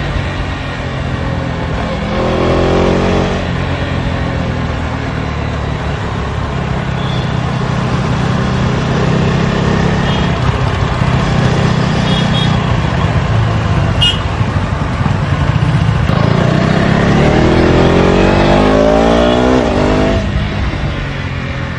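KTM Duke 250's single-cylinder engine running through its stock exhaust while riding. The revs climb briefly a couple of seconds in, then climb again in a longer pull near the end before dropping off.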